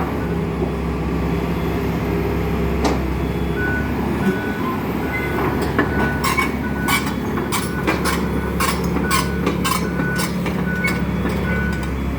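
Excavator diesel engine running steadily, with a warning alarm beeping over and over. From about six seconds in there is a run of sharp cracks and clanks of demolition debris.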